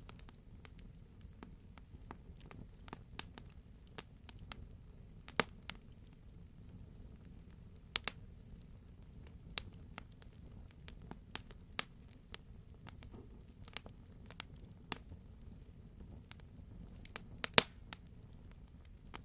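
Campfire burning, wood crackling with irregular sharp pops over a low rumble of the flames, a few louder pops standing out.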